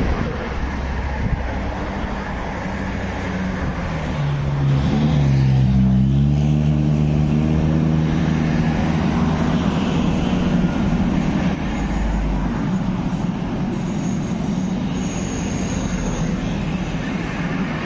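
A vehicle passing close by over a steady rumble of traffic and rail noise. Its hum falls in pitch as it goes past, about five seconds in, where it is loudest.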